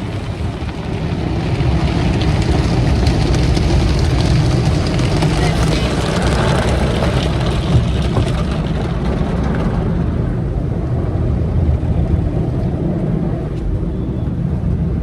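Automatic conveyor car wash heard from inside the car: a loud, steady rush of spraying and scrubbing or blowing air over a deep rumble, the hiss easing off about ten seconds in.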